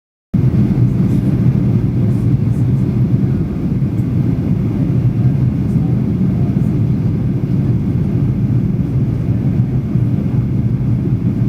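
Steady low rumble inside the cabin of a Boeing 737 airliner in flight: engine and airflow noise heard from a rear window seat.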